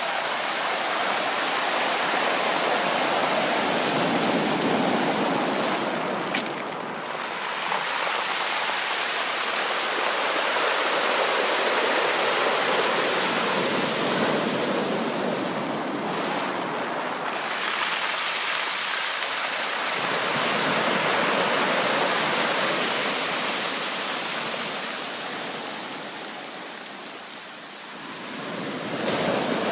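Sea waves breaking on a beach: a continuous wash of surf that swells and eases, with a new surge every eight seconds or so.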